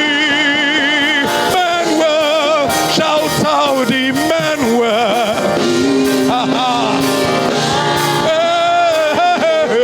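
Worship singing: a solo voice sings a slow melody with wide vibrato and bending runs over sustained held chords.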